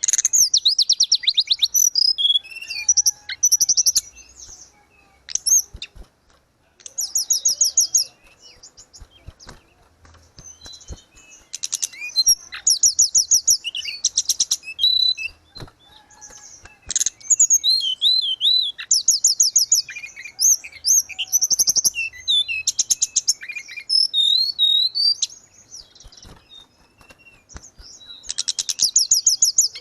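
Tledekan gunung songbird singing: repeated phrases of fast, high trills and twisting whistles, broken by short pauses.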